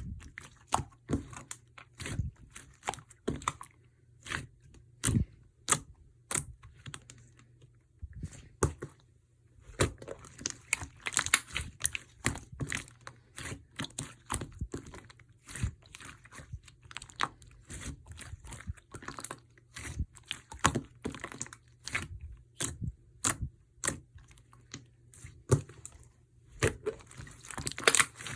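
Slime being squeezed, stretched and pressed by hand, making a dense, irregular run of clicks, pops and crackles, several a second.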